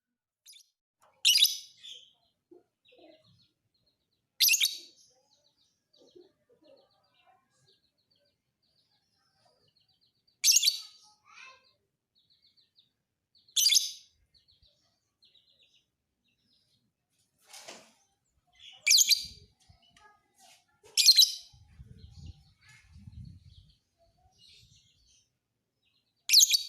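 Lovebird calling: about eight short, loud, high chirps a few seconds apart, with faint quick twittering between them.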